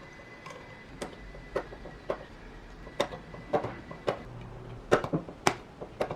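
Irregular light clicks and knocks of small parts being handled and tapped at a workbench, about a dozen, loudest a little past the middle, with a faint steady high tone through the first two-thirds.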